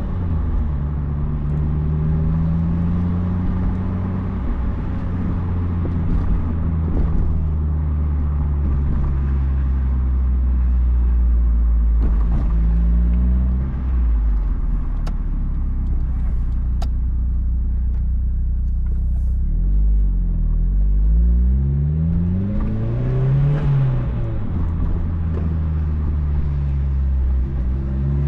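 2004 Mazdaspeed Miata's turbocharged 1.8-litre four-cylinder running through an aftermarket cat-back exhaust while driving, with a steady low exhaust rumble. The engine note rises with revs and drops back several times, as at gear changes.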